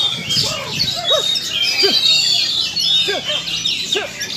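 Many oriental magpie-robins (kacer) singing at once at a songbird contest, a dense, loud mix of chirps and whistles. Short calls from the crowd of bird keepers rise and fall underneath every second or so.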